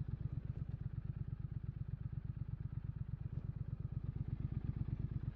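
Triumph Scrambler 900's parallel-twin engine running steadily at low revs, an even rapid throb of about ten pulses a second with no revving.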